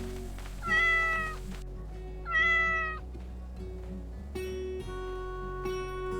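A cat meowing twice, two short calls a little over a second apart, over soft background music.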